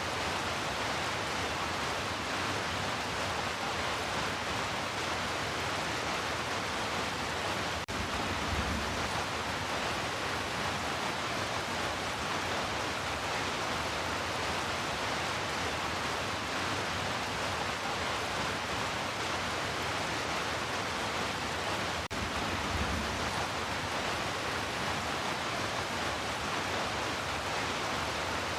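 Heavy rain falling as a steady, even hiss, with a brief low rumble about 8 seconds in and again about 22 seconds in.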